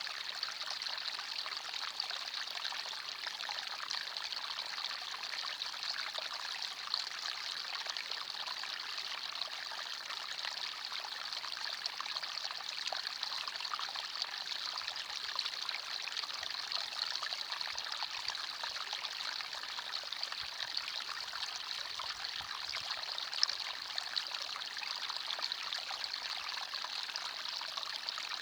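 Forest stream running over stones: a steady trickling, babbling flow of water.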